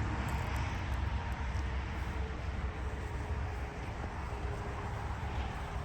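Steady low rumble of a running vehicle, with faint steady tones above it.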